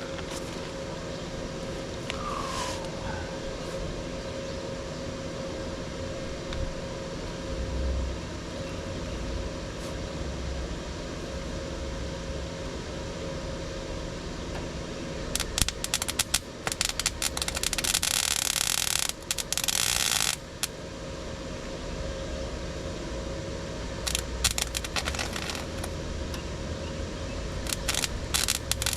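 Workshop noise: a steady hum with a faint constant whine, broken about halfway through and again near the end by bursts of scraping and rattling.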